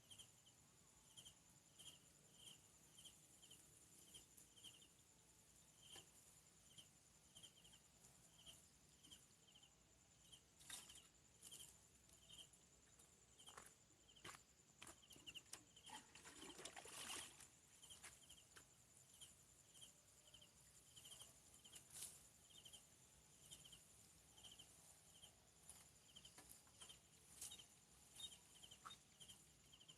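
Faint insect ambience: an insect chirping about twice a second over a steady high insect whine, with scattered soft clicks and a brief rustle a little past the middle.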